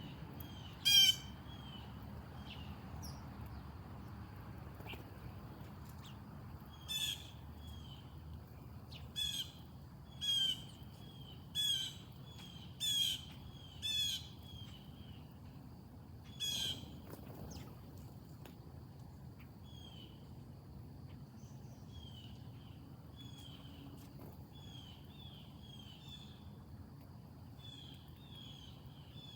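Wild birds calling: a series of about eight loud, harsh calls, most of them coming roughly a second apart in the first half, followed by softer, short repeated chirps.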